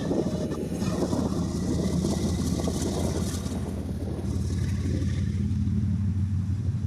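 Diesel freight locomotive 8781 running under power as it pulls its train, a steady low engine drone with a rumble that eases off about four seconds in.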